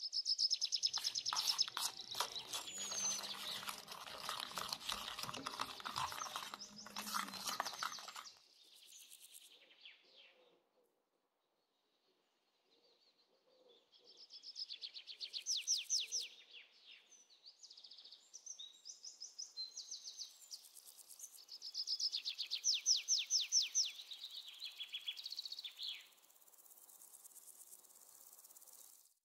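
Small birds chirping in rapid high trills, in two spells with a short quiet gap between them. Dense clicking runs under the chirping for the first eight seconds.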